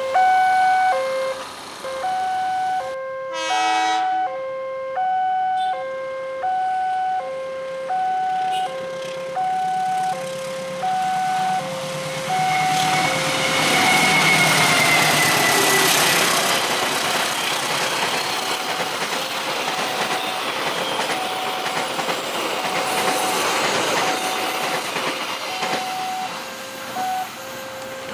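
Level crossing warning alarm sounding its two alternating tones over and over, about one pair a second. A short horn blast sounds about three seconds in. From about twelve seconds in a train passes through the crossing, its rumble and wheel noise swelling and partly covering the alarm before fading near the end.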